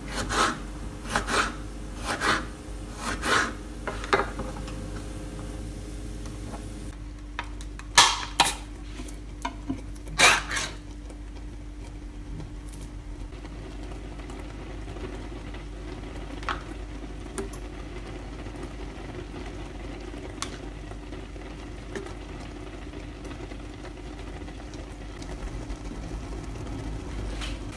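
Kitchen food-preparation handling: rhythmic scraping strokes about once a second for the first few seconds, then a few sharp knocks or clinks around eight to ten seconds in. After that a steady low hum runs, with occasional light clicks.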